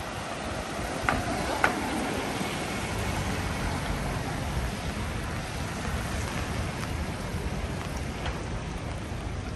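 Steady rain with the general noise of a city street, a low rumble underneath, and two sharp clicks a little over a second in.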